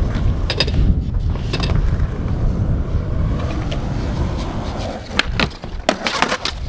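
Strong wind buffeting the microphone with a steady low rumble, under a few sharp skateboard clacks. Near the end comes a quick cluster of knocks and clatter, a skateboard trick attempt ending in a fall.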